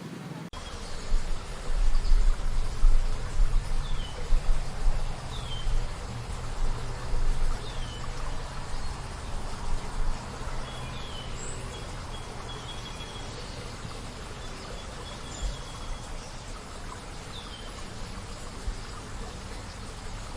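Outdoor ambience: wind gusting on the microphone as a low, uneven rumble, strongest in the first half. Over it a bird gives a short, high, falling call every few seconds.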